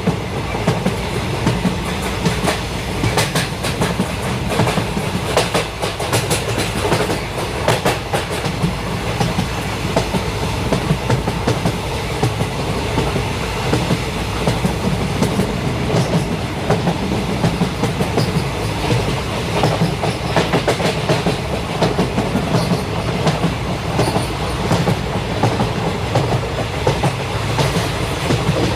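Train running on the rails: a steady rumble with frequent sharp clicks and clacks of the wheels over the track.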